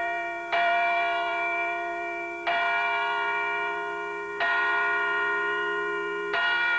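Church bells striking one at a time, about every two seconds, four strokes in all; each stroke rings on and fades slowly under the next.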